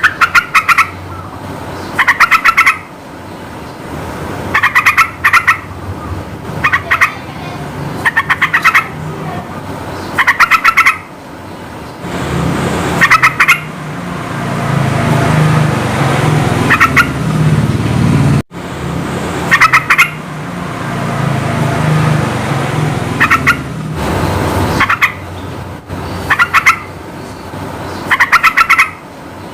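Yellow-vented bulbul (trucukan) calling: short bursts of rapid chattering notes, repeated every second or two. A low rumble sits underneath through the middle stretch.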